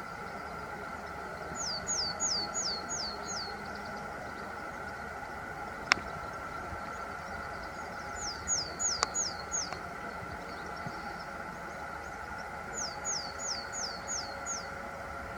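Willow tit calling: three runs of five or six quick, downward-sliding notes, a few seconds apart, over a steady background hum. A single sharp click sounds about six seconds in.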